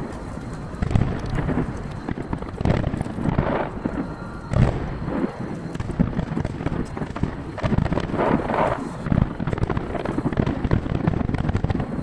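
Fireworks shells bursting one after another in a dense barrage, heard from a distance with their booms echoing back. The recording plays at triple speed, so the bangs come faster and higher-pitched than in life.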